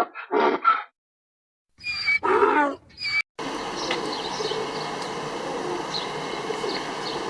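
A quick series of short pitched animal calls, a pause, then one longer animal call. After that the sound cuts to a steady outdoor background with faint high chirps.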